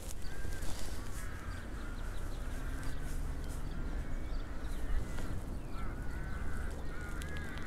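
Birds calling over and over with short arched notes, more of them near the end, over a steady low rumble.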